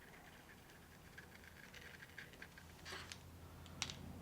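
Faint drawing strokes of a pen or brush tip on the drawing surface, with a couple of light taps about three seconds in, over a low room hum.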